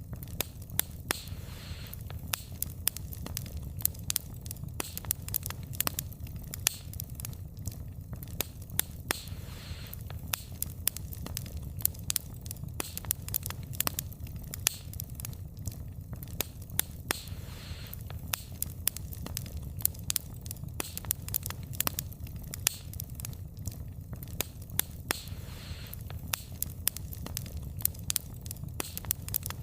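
Wood fire burning, logs crackling and popping with irregular sharp snaps over a steady low rumble of the flames, and an occasional brief hiss.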